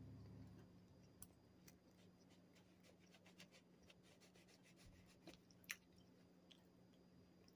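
Faint chewing of a plain old-fashioned donut, with scattered small mouth clicks and one sharper click after about five and a half seconds, over a low steady hum.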